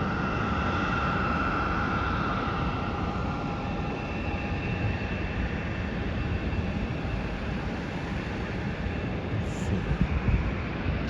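Jet aircraft engines whining steadily at a distance over a low rumble, with one high tone fading over the first few seconds.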